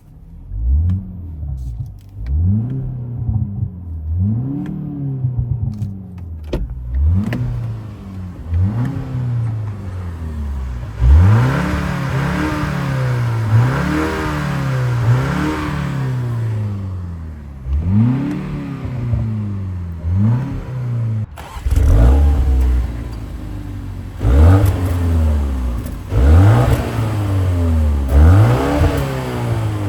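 2024 BMW X2 M35i's 2.0-litre turbocharged inline-four revved through its exhaust in repeated quick blips, each rising in pitch and falling back, about one every one to two seconds.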